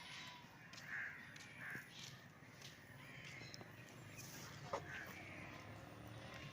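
Faint crow cawing: a few short single caws spread out, with a brief click just before the last one.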